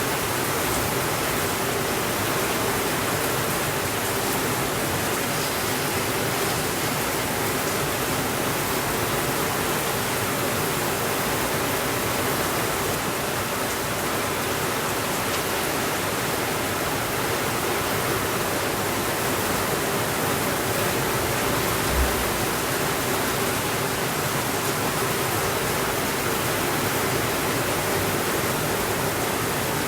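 Steady rain, an even hiss with no thunder. A single brief low thump comes about two-thirds of the way through.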